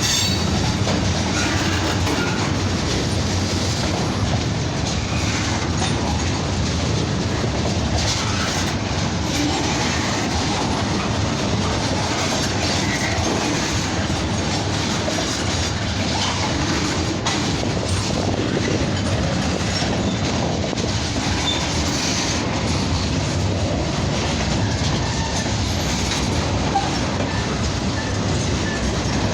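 CN freight train's cars rolling past at close range: a steady rumble of steel wheels on rail, with repeated clickety-clack knocks as the wheels cross rail joints.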